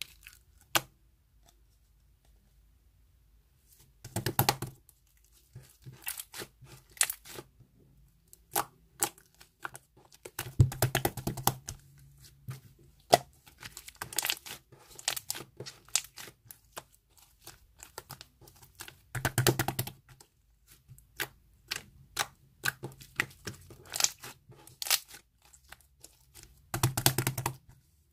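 Irregular handling noise: bursts of crinkling and tearing with sharp clicks between them and short quiet gaps.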